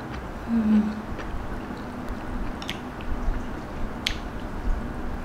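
Close-up mouth sounds of chewing Samyang cheese ramen noodles, with a brief low hum about half a second in and a couple of sharp clicks of chopsticks and spoon against the ceramic bowl.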